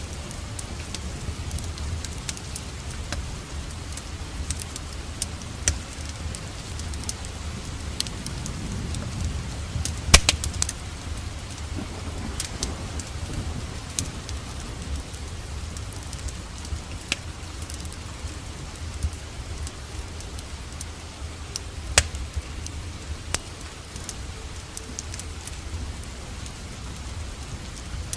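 Steady rain with the scattered sharp crackles and pops of a wood fire burning in a fireplace. A loud pop comes about ten seconds in and another about twenty-two seconds in.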